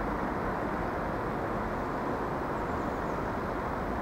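Irish Rail 22000 class diesel multiple unit approaching, a steady running noise of its diesel engines and wheels on the track.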